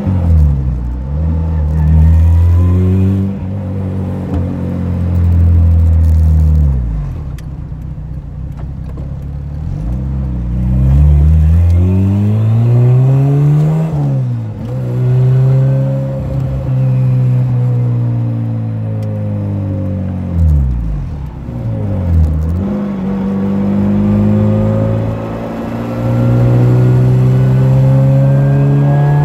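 Turbocharged Honda Civic engine heard from inside the cabin, accelerating through the gears. Its pitch climbs steadily, then drops sharply at each upshift, about halfway through and again past two-thirds, before climbing again. These are part-throttle pulls.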